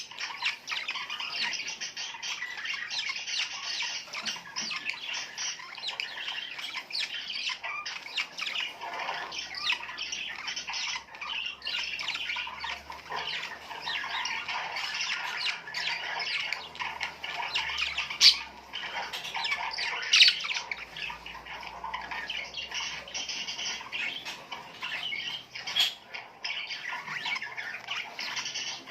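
A flock of small birds chattering and squawking without pause, many short overlapping calls, with a few louder single calls standing out in the second half.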